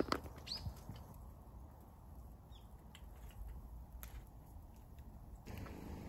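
Quiet outdoor ambience: a sharp click at the very start, two short high bird chirps in the first second, then a low steady rumble with a few faint ticks.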